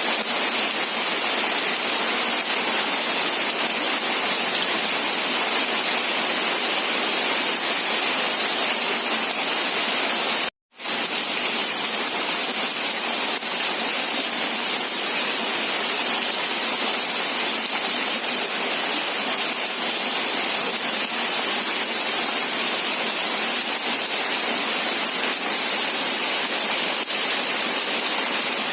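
Steady, even rain hiss with no separate drops or thunder standing out. It cuts out for a split second about ten seconds in, then returns unchanged.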